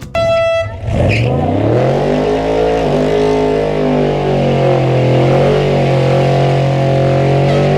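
Car engine revving up over about a second and a half and held at high revs, with a hiss of noise over it, dropping off at the end.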